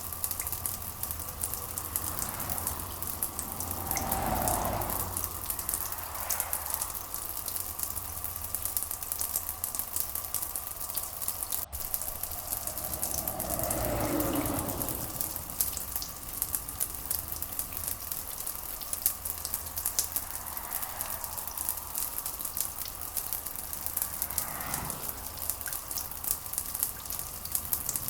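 Steady rain falling, a dense crackling patter of drops over an even hiss. A brief swelling whoosh rises and fades three times, about 4, 14 and 25 seconds in.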